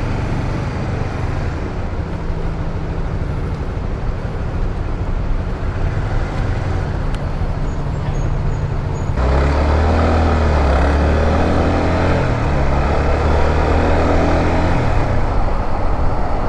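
150cc motorcycle engine running at speed, with wind and road noise. About nine seconds in, the sound grows louder, with a deeper hum.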